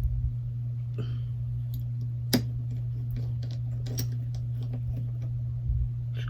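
Light, scattered clicks and taps of a small screwdriver and a tiny screw being fitted into a smartphone's frame, with one sharper click a little over two seconds in, over a steady low hum.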